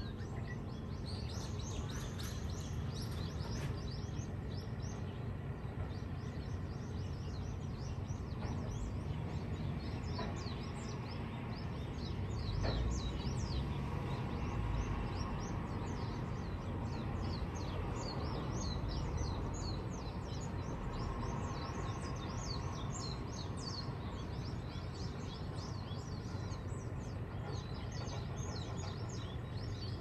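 Small birds chirping continuously, many short high chirps in quick succession, over a steady low background rumble that swells briefly about halfway.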